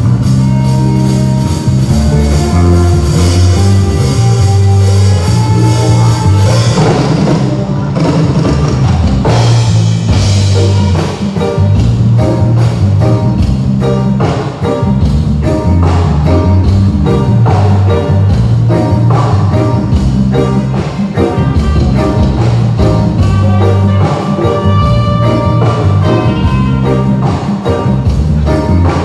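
A live band playing through a PA during a sound check. A bass guitar plays a strong repeating line under a steady drum-kit beat, with melodic instrument lines on top.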